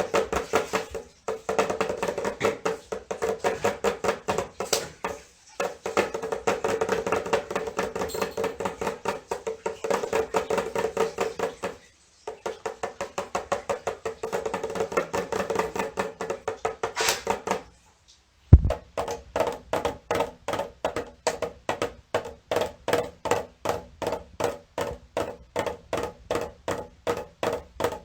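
A pitched drum struck in a steady rhythm, about three strokes a second, each stroke ringing at a single mid-range pitch. The run stops briefly a few times, and one loud thump comes about two-thirds of the way in.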